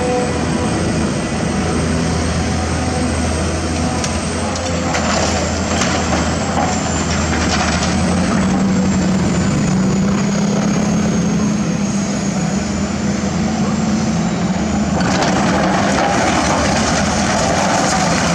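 Diesel engine of a working excavator running steadily under load, with a faint high whine. Bursts of rougher mechanical noise come in about five seconds in and again about fifteen seconds in.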